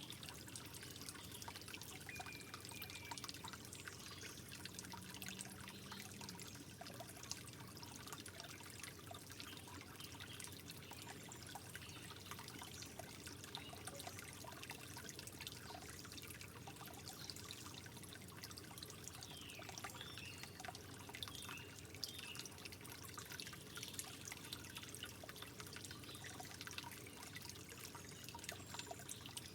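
Water trickling gently, with a steady patter of small drips and splashes.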